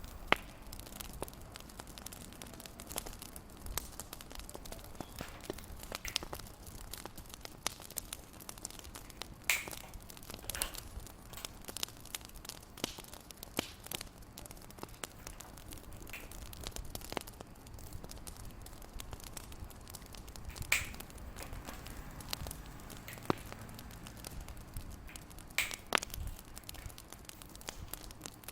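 Wood fire crackling in a fireplace: a low steady hiss with irregular small pops and a few louder snaps.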